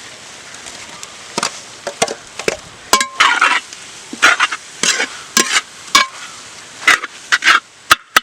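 Metal spatula scraping and clanking against a frying pan as chopped parotta pieces are stirred into frying masala, over a faint sizzle. The strokes come irregularly from about a second and a half in, and some ring briefly.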